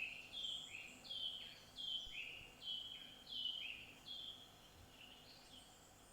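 A songbird singing a repeated two-note phrase, a higher note followed by a lower one, several times over, fading after about four seconds, over a faint outdoor background.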